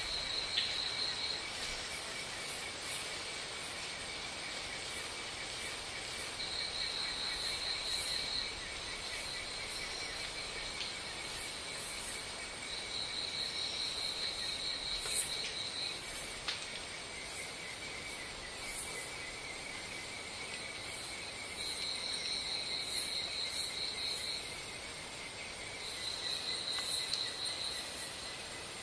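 Insects chirring: a steady fine pulsing trill underneath, with a higher, louder trill that comes in bursts of two to three seconds, five times.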